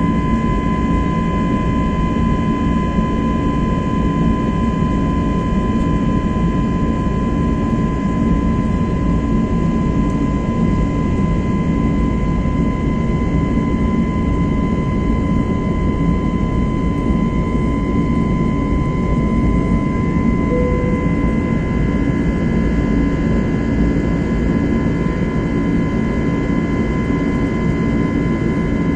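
Airbus A321neo's CFM LEAP-1A turbofans and airflow heard inside the cabin in flight after takeoff: a steady deep rumble and rushing noise with a constant whine near 1 kHz and fainter higher tones.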